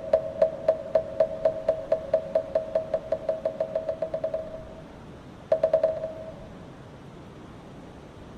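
Korean Buddhist moktak (wooden fish) struck in a roll whose strokes come quicker and quicker while fading away. A short rapid flurry of strokes follows about halfway through, then only a steady soft hiss remains.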